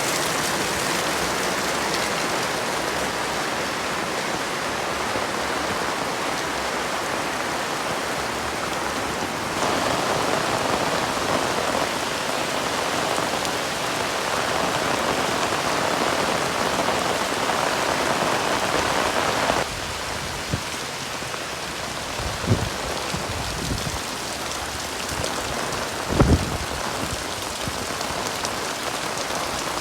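Heavy rain pouring steadily, with a fuller, louder stretch through the middle that cuts off abruptly. Two short low thumps come late on.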